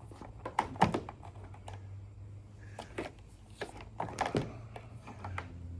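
A few sharp clicks and knocks, the loudest just under a second in, over the steady low drone of a gasoline pressure washer running in the basement.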